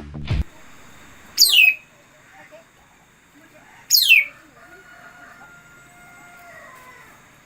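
Bird calls played as a decoy to lure birds into a trap: two loud, sharp calls that fall steeply in pitch, about two and a half seconds apart, with faint held whistled notes after the second.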